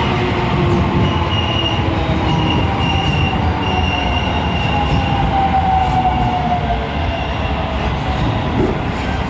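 Train moving slowly through a station, its running tone sliding down in pitch as it slows, with a high wheel squeal coming and going over the rumble.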